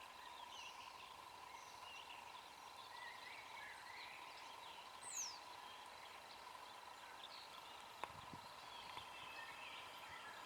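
Faint birdsong: scattered chirps and twitters, with a short falling whistle about five seconds in and a single sharp click about eight seconds in, over a faint steady hum.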